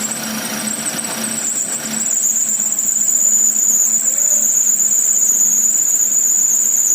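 A continuous shrill, high-pitched whine that gets louder about two seconds in and then holds steady.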